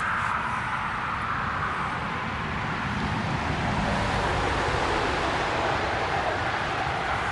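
Steady road traffic noise: an even hiss that shifts slowly lower in pitch over a few seconds, with a low rumble underneath.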